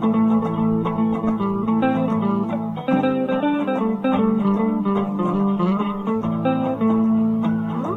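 Instrumental music led by a plucked guitar playing a quick run of single notes over held lower notes.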